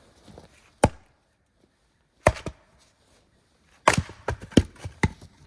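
Sharp chopping strikes into frozen firewood, about seven in all: a single blow, then a pair, then a quick run of four near the end.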